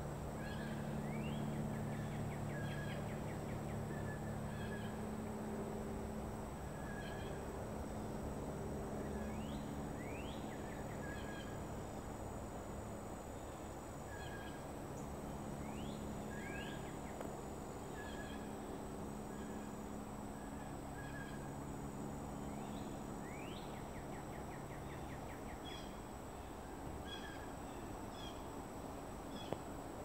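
A bird calling again and again, each call a quick rising note followed by a fast trill, every few seconds. Under it runs a steady low hum and a thin, constant high-pitched tone.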